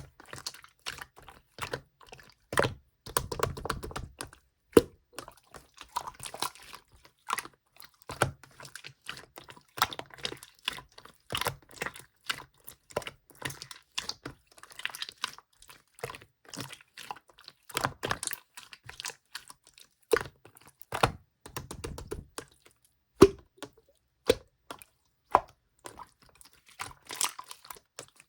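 Translucent slime being squeezed, stretched and pressed by hand, giving a run of irregular sticky clicks and small pops, with a few louder snaps.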